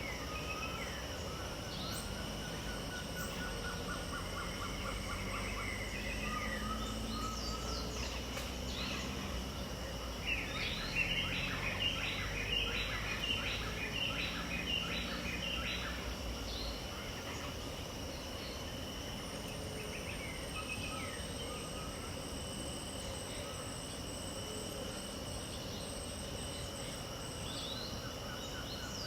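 Pantanal dawn ambience: several birds calling over a steady insect drone. About ten seconds in, a burst of many overlapping, chattering calls lasts several seconds, then scattered single calls carry on.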